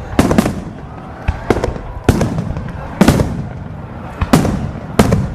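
Fireworks going off: a string of sharp bangs, about one a second, each trailing off in a short echo.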